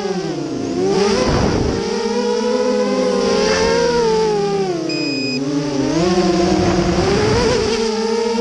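FPV quadcopter's brushless motors whining, the pitch sweeping up and down again and again as the throttle is worked.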